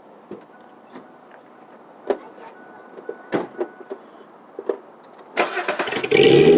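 A few light clicks and knocks, then about five seconds in the starter cranks briefly and the 1998 Ford Explorer's 4.0 SOHC V6 catches and runs loud and steady through its 2.5 inch Y-pipe and Nexus muffler.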